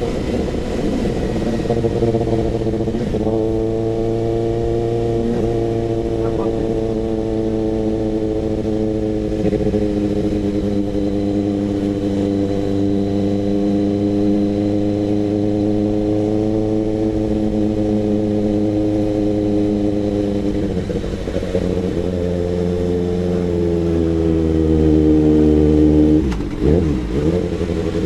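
Kawasaki ZX-6R inline-four motorcycle engine through an SC-Project CRT exhaust, running at a steady engine speed while riding. Its pitch climbs a little and gets louder past the twenty-second mark, then dips and wavers near the end as the throttle comes off.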